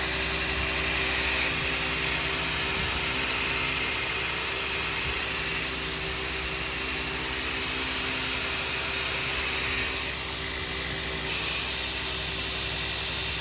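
Grinder running steadily while a quenched, hardened steel blade is ground, the high grinding hiss swelling and dropping several times as the steel is pressed on and eased off. The blade is kept cool in water between passes so it does not heat to a blue and lose its hardness.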